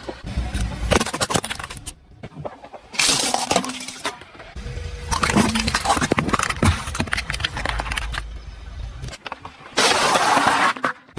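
A car's tyres roll over and crush brittle objects. Dense crackling and breaking runs over the car's low running sound, in several short clips with abrupt cuts between them.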